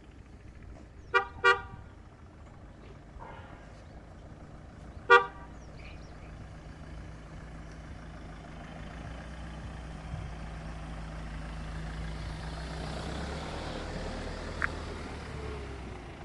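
Car horn giving two quick beeps about a second in, then a single beep a few seconds later. A steady low vehicle engine rumble runs underneath and grows louder through the second half.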